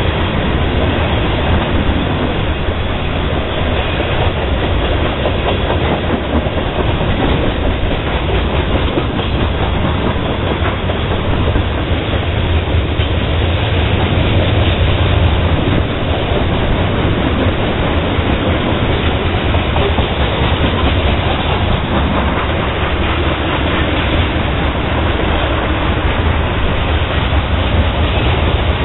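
Cars of a mixed freight train rolling past at close range: steel wheels running on the rails in a steady, continuous noise that is strongest at the low end.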